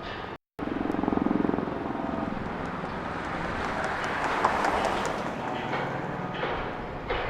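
A motor vehicle passing, its noise swelling to a peak about four to five seconds in and then easing off. The sound cuts out completely for a moment just before the first second.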